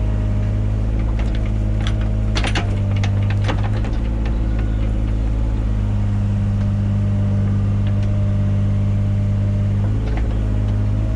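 Mini excavator engine running steadily under hydraulic work, with a cluster of sharp clanks and knocks about one to four seconds in.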